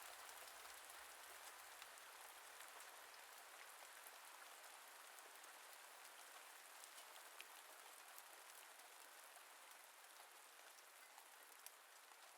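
Faint rain ambience: a soft, even hiss of rainfall with scattered light drop ticks, fading slightly toward the end.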